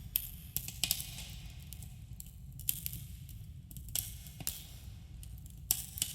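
Campfire burning: wood crackling and popping irregularly over a steady low rumble, with a few sharper pops, the loudest near the end.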